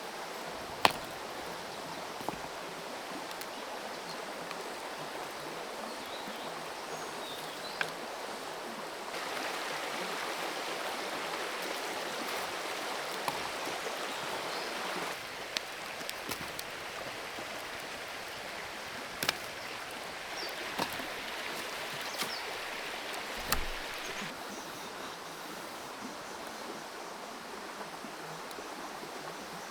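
Creek water running steadily over stones, a little louder for several seconds in the middle, with a few sharp clicks and knocks scattered through, the loudest about a second in.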